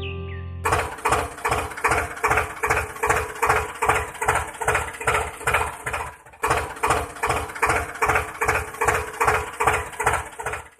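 A small motor-driven mechanism running with a rapid, regular clatter, about four beats a second over a steady hum. It stops briefly about two-thirds of the way through and then starts again.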